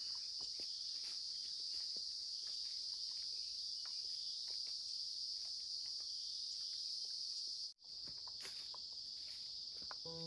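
Steady, high chorus of forest insects, with scattered faint clicks. It cuts out for an instant about three-quarters of the way through, then resumes.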